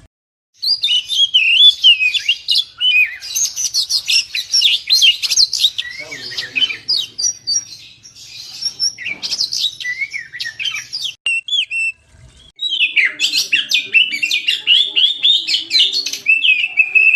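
Oriental magpie-robin (kacer) singing busily: a rapid, varied stream of whistles and chattering notes, with a brief break about twelve seconds in.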